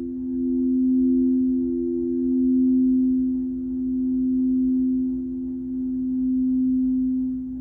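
Crystal singing bowls ringing in a sustained drone of two steady low tones, the sound swelling and easing about every two seconds.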